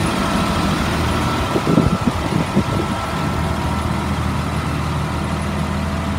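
A 2003 Blue Bird All American school bus engine idling steadily, with a few brief knocks about two seconds in.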